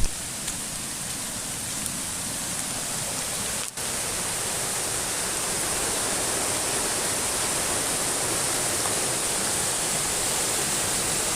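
Steady rushing of a river in flood, mixed with rain, heard as an even hiss without any rhythm. The sound cuts out for an instant about four seconds in.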